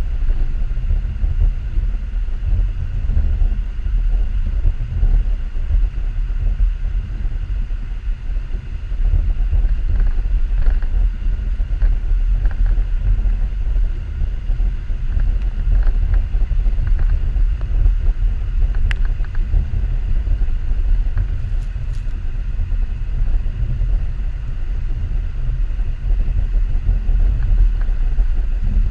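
2014 Subaru XV Crosstrek driving over a snowy off-road trail: a steady low rumble from the vehicle, with a few small clicks and knocks.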